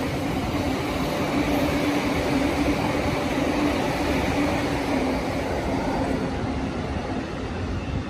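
Electric train running past, a steady rumble with a low steady hum, easing off near the end.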